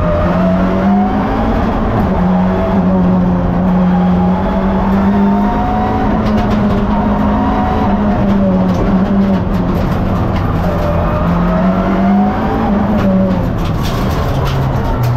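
Race car engine heard from inside the cockpit while the car is driven hard, its pitch climbing and dropping again and again through gear changes and corners.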